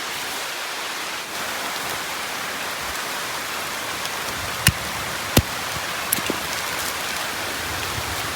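Rain falling steadily on the rainforest, with two sharp taps a little under a second apart midway and a fainter one just after.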